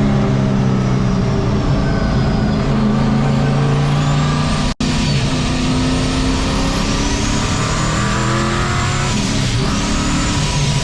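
Turbocharged engine of a 1951 Chevy race truck running hard on track, heard from on board: its note climbs and eases with the throttle, with a thin high whine rising and falling along with it. The sound cuts out for an instant just before the middle, and the revs dip and climb again near the end.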